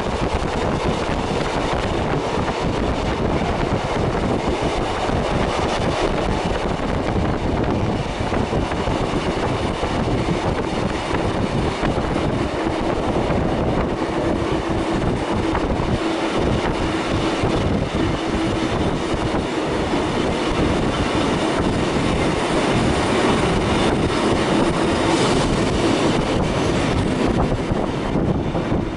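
Kotoden 300, a 1926 electric railcar with nose-suspended traction motors, running at speed on long welded rail, heard from on board: a continuous rumble of wheels and running gear. A steady hum from the nose-suspended motor drive strengthens in the second half.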